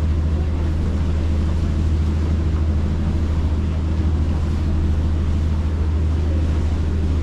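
A tour boat's engines running steadily underway, a constant deep hum. Wind on the microphone and rushing water run under it.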